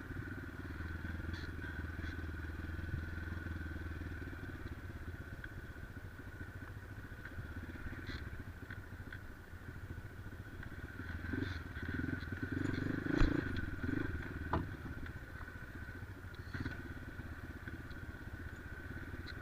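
Motorcycle engine running steadily on a rough off-road climb. From about eleven to fifteen seconds in there is a run of clattering knocks, the loudest a sharp knock about thirteen seconds in.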